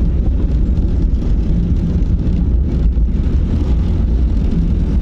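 Car's engine and road noise heard inside the cabin while driving, a steady low rumble.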